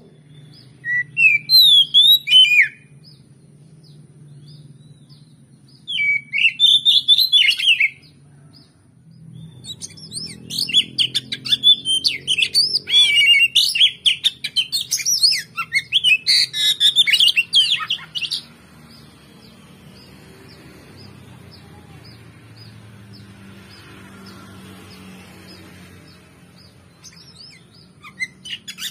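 Oriental magpie-robin (kacer) singing in bursts of fast, varied whistles and chirps: a short phrase about a second in, another around six seconds, a long run of song from about ten to eighteen seconds, and a new phrase starting near the end. A faint low hum runs underneath.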